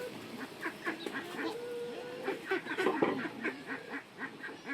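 A flock of domestic ducks quacking and chattering, many short overlapping calls.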